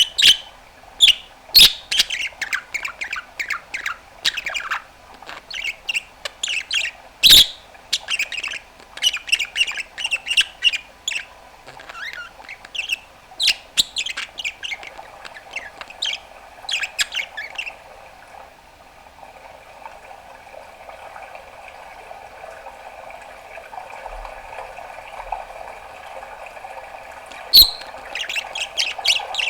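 Budgerigar chattering with rapid chirps, clicks and squawks, then for about ten seconds a quieter, steady low warble, before a sharp loud chirp near the end and the chirping picks up again.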